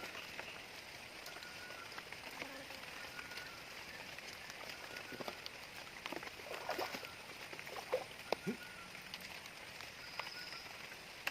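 Steady rain falling, heard as an even hiss, with a few short sharp splashes or knocks between about six and nine seconds in.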